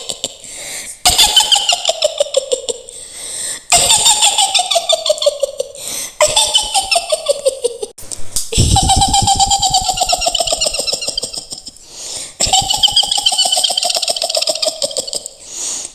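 A woman's shrill, witch-like cackling laugh in about five long bouts, each starting high and sliding down in pitch.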